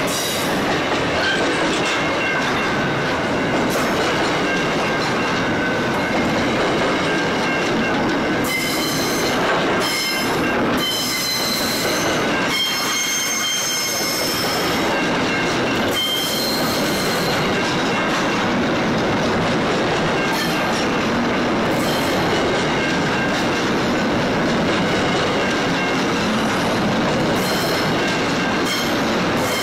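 Freight train's container wagons rolling past close by, a steady rumble of steel wheels on rail. High-pitched wheel squeal comes and goes as the wheels grind around the curve.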